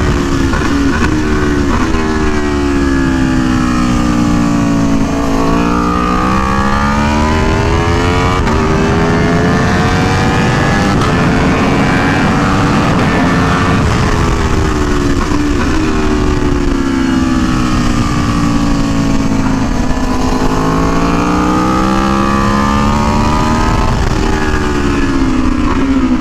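Aprilia Tuono V4 1100 Factory's V4 engine at track speed, revs sweeping up under acceleration and down again when the throttle closes. The pitch falls over the first few seconds, climbs for about eight seconds, falls, then climbs and drops again near the end.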